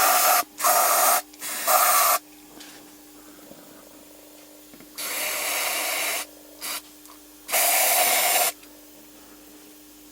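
Aerosol can of brake cleaner sprayed in short hissing bursts, three quick ones and then two longer ones, flushing out an old oil filter element to show what dirt and old oil come out.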